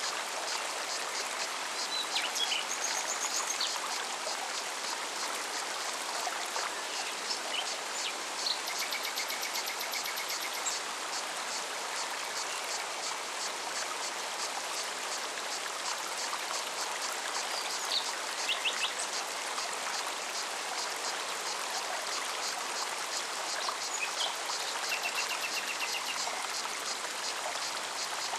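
Mountain forest stream running steadily over rocks, with short chirps and trills from songbirds breaking in now and then.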